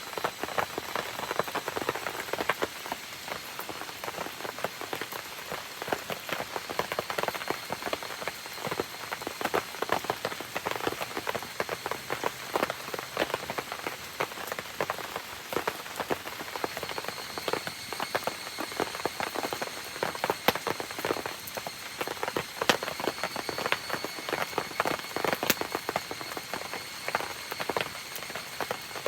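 Steady rain falling, with many sharp pattering drops and crackles, mixed with a campfire burning. A faint, steady high-pitched tone comes in more strongly about halfway through.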